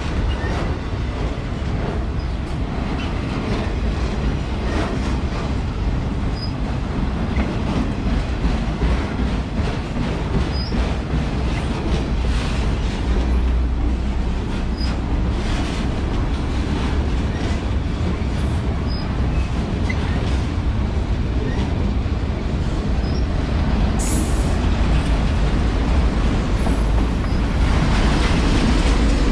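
CSX auto rack freight cars rolling past on the rails: a steady heavy rumble with irregular clicks of wheels over rail joints, growing a little louder near the end.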